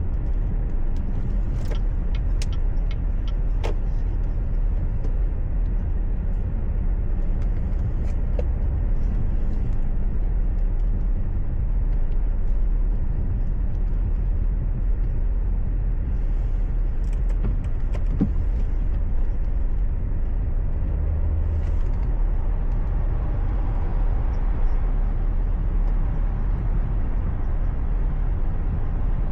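Steady low rumble of a car's engine and tyres heard inside the cabin, with a few scattered sharp clicks.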